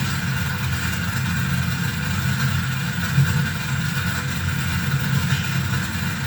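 Harsh electronic noise from a mixer-feedback noise rig with reverb and bass: a dense, churning low rumble with a fainter band of hiss above it, steady throughout.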